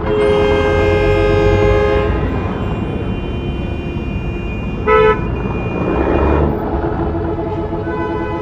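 Busy city street traffic: a vehicle horn sounds a long blast of about two seconds at the start, then a short, sharp toot about five seconds in, over the steady rumble of engines and passing cars.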